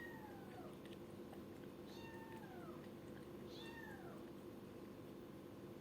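Kitten meowing three times, about every two seconds, each meow short and falling in pitch; faint.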